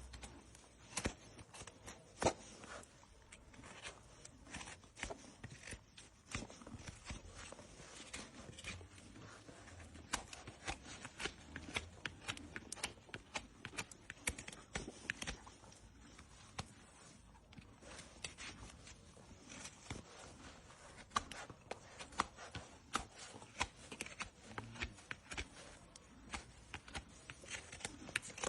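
Hoof-trimming tools cutting and paring a horse's overgrown hoof horn: a quiet, irregular run of crisp clicks, snaps and scrapes.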